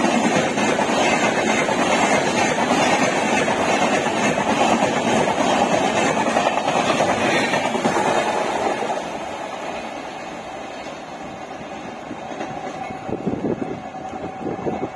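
Passenger coaches of a double-decker express train passing at speed, a loud steady rush of wheels on rail. The noise drops about nine seconds in as the last coach goes by, then the train runs off into the distance.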